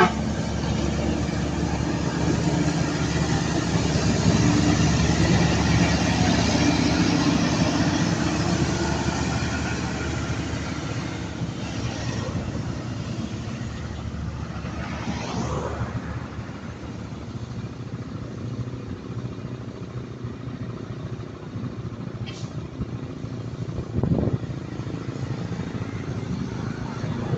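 Isuzu truck's 10PE1 V10 diesel engine running, growing louder over the first several seconds and then fading away. A short sharp sound comes near the end.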